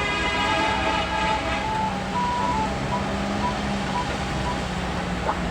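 Vehicles running on the road, engines droning steadily under a haze of road and rain noise. A pitched, horn-like tone with many overtones carries over from before and stops about a second and a half in.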